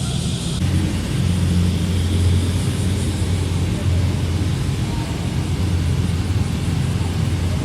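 A modified car's exhaust rumbling low and steady as the car rolls in at low revs, with small dips in the drone partway through.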